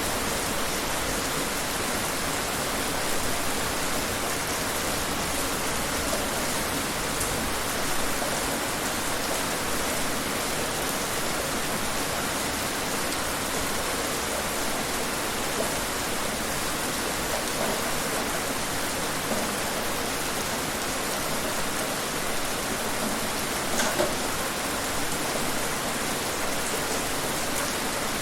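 Steady rain falling, a continuous even hiss of drops, with a sharper single drop or tap near the end.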